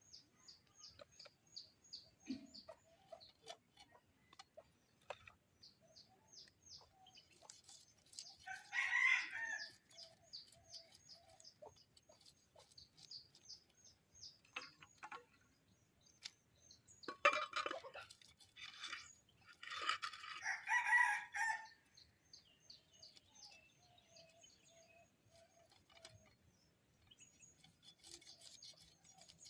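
A rooster crowing three times: once about nine seconds in, then twice more close together past the middle. Behind it runs a steady series of quick, high chirps.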